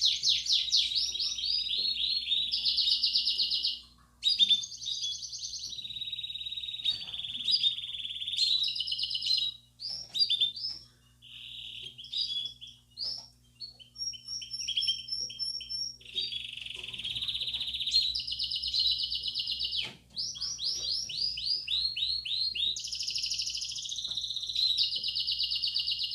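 Belgian canary singing: long runs of fast trills and rolled phrases, changing phrase every second or two, with short pauses about four, ten and twenty seconds in.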